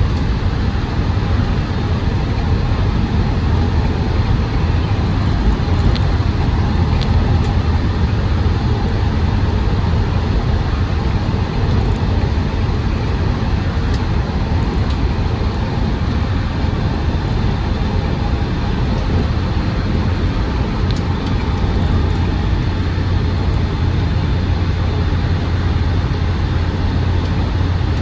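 Land Rover Defender 110 TD5's five-cylinder turbodiesel pulling steadily on the road, a constant low engine drone mixed with road noise, heard from inside the cab.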